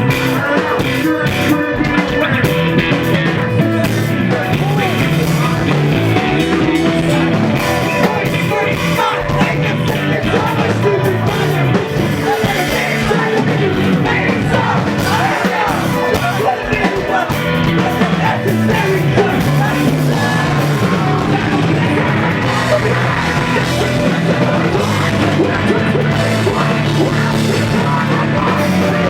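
Post-hardcore band playing live: distorted guitars, bass and drums, with vocals over them, loud and without a break.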